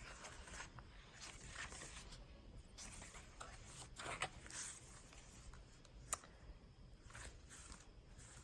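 Faint rustling of paper pages and flaps as a handmade journal is handled and turned, with a short sharp tap about six seconds in.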